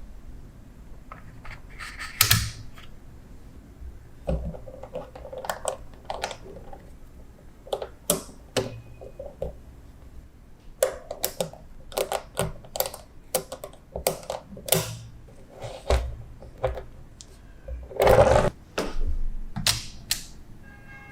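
Small magnetic balls clicking and clacking as they snap together, in irregular single clicks and short runs, with a longer rattle of many balls about two seconds in and again near the end.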